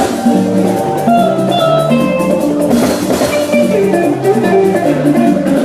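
Band music with drums and pitched instruments playing a steady, lively melody.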